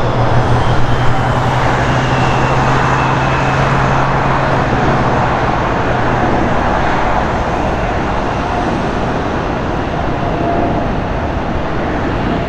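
Boeing 717's twin Rolls-Royce BR715 turbofan engines as the jet rolls out after landing: a loud, steady rushing roar with a faint high whine that falls in pitch and a low hum that fades after about five seconds.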